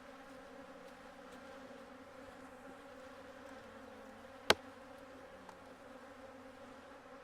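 Honeybees buzzing in a steady hum around opened hives, the colony stirred up by the hive move. About halfway through, one sharp click or knock stands out.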